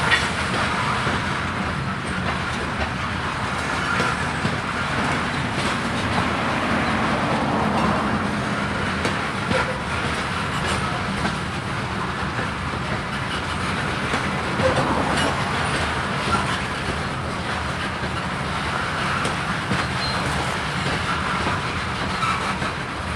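Freight grain train rolling steadily past, its wheels clacking over the rail joints with scattered sharp clicks.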